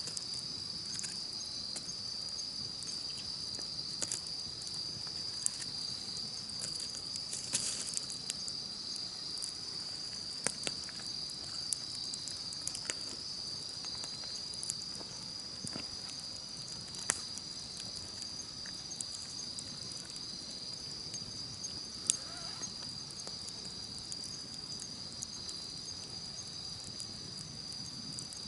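Wood campfire crackling, with irregular sharp pops scattered through, over a steady, high-pitched chorus of insects trilling.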